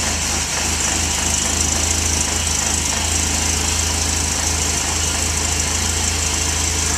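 Car engine idling steadily just after being started, with an even low pulsing from the exhaust.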